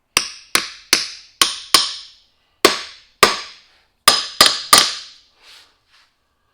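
Hammer blows driving a wheel seal into a truck's front wheel hub: about ten sharp, ringing metal strikes in uneven groups, tapping the seal down toward its seat.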